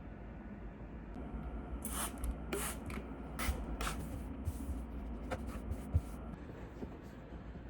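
Five or so short hissing strokes within about two and a half seconds, then a few fainter ones: hand cleaning of Sabre cutlery to strip off its polishing residue.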